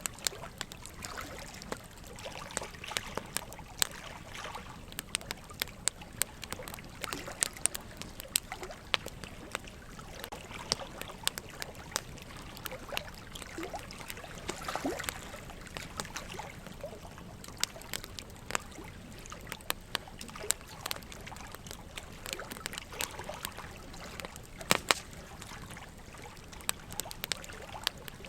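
Wood fire crackling with frequent sharp pops, one louder crack near the end, over the steady trickle of running water.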